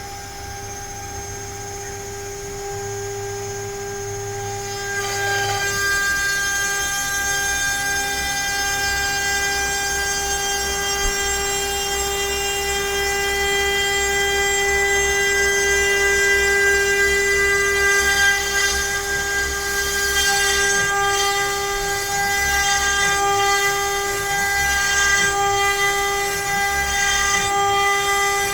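CNC router spindle whining at a steady pitch while its bit mills letters into pine. About five seconds in the sound grows louder, with a rough cutting hiss over the whine.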